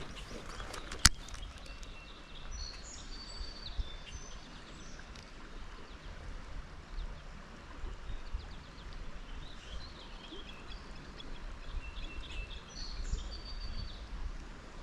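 A songbird singing two short phrases of high whistled notes, about ten seconds apart, over a steady low rumble, with one sharp click about a second in.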